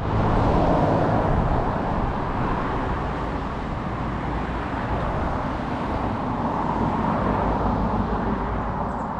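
Steady road traffic noise, an even rumble from vehicles on a nearby highway.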